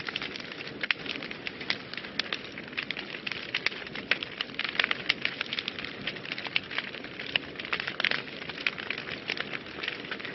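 Wood fire crackling in a fireplace: many sharp, irregular pops and snaps over a steady hiss.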